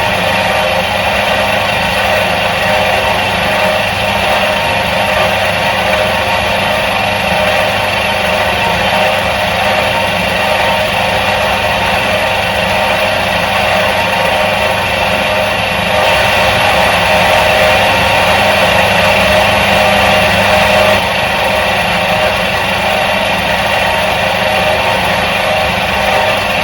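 Electric motor of a 1977 Soviet washing machine running steadily, an even mechanical drone with a constant pitch. It grows slightly louder for about five seconds past the middle, then settles back.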